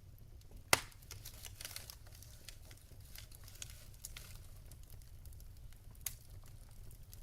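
Burning logs crackling in a fireplace, with many small irregular crackles over a low steady rumble. A sharp, loud pop comes about a second in and a smaller one near the end.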